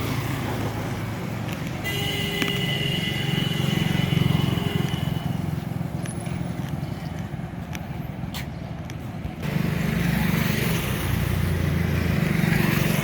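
Road traffic: motor vehicles running past with a low rumble. A steady high tone sounds for about three seconds starting two seconds in.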